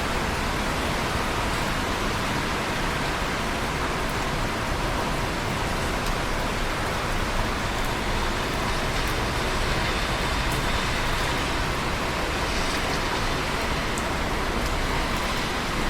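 Steady rain falling, an even hiss without breaks, with a few faint drop ticks.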